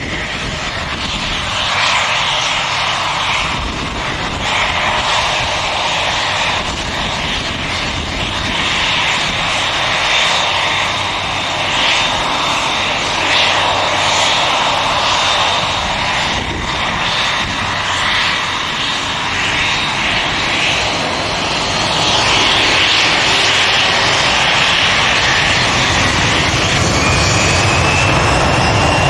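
Douglas DC-8's Pratt & Whitney JT3D turbofan engines running loud: a dense jet noise with a thin, steady high whine on top. It gets a little louder in the last several seconds, when a second whine rises in pitch.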